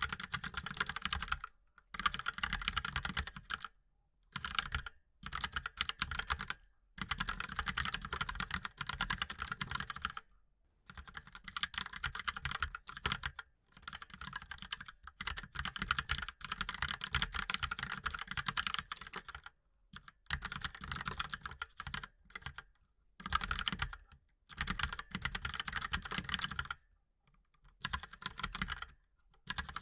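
Mechanical keyboard being typed on rapidly: runs of fast key clicks a few seconds long, broken by short pauses.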